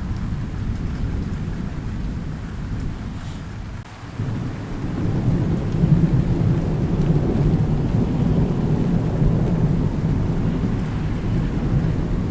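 Thunder rumbling over steady rain. The rumble eases off about four seconds in, then a new, louder roll builds and rolls on to the end.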